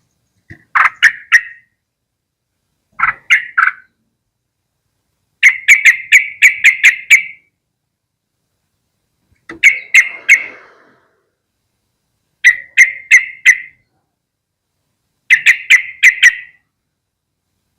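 Yellow-vented bulbul calling: six short phrases of rapid, chattering notes, each phrase followed by a pause of a second or two.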